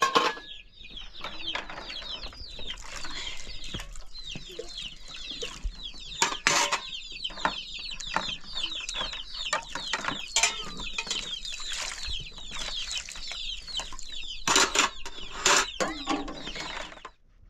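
A group of chickens, many chicks peeping in dense, overlapping short falling chirps with hens clucking, and a few louder sharp calls or knocks, the loudest at the very start, around six and a half seconds in, and twice near the end. The chirping stops just before the end.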